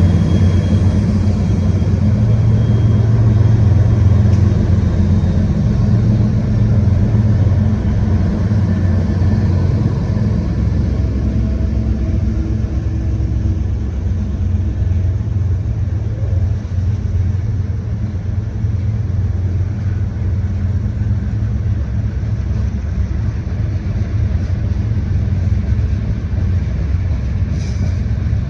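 Freight train passing: diesel locomotive engines and rolling cars make a steady, loud low rumble, strongest in the first ten seconds or so and then easing slightly.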